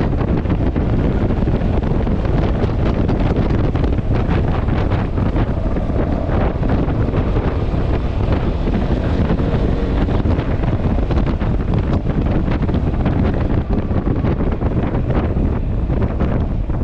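Steady, loud wind buffeting on the microphone of a moving Yamaha XMAX scooter, with the scooter's running and road noise under it.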